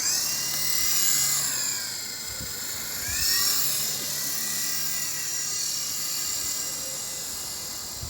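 Electric motors of a small RC toy helicopter whining at a high pitch, starting suddenly as it spins up and takes off. The pitch drops about two seconds in, climbs again a second later, then holds fairly steady and sinks slowly near the end.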